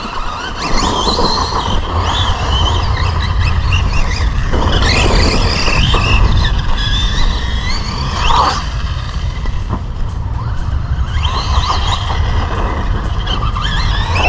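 Team Associated Rival MT10 v2 RC monster truck's brushless motor and drivetrain whining as it is throttled on and off, rising and falling in pitch in several bursts.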